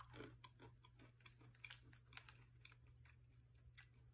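Faint, irregular crunching of sweet and salty peanuts being chewed with the mouth closed, small crackles coming and going over a steady low hum.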